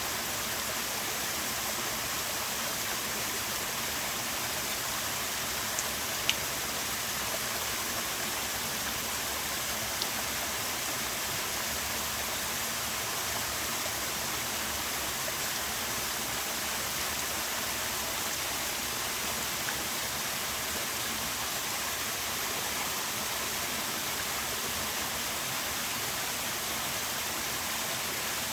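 Small waterfall running with a fairly low flow: a steady, even rush of falling water. A short sharp click stands out about six seconds in, and a fainter one near ten seconds.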